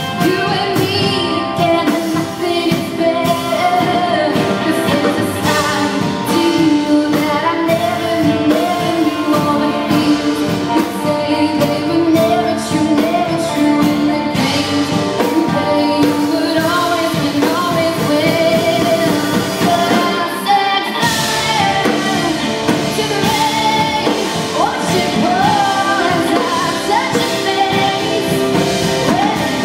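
A band playing a pop song with a lead singer over a steady drum beat; the band gets fuller about two-thirds of the way in.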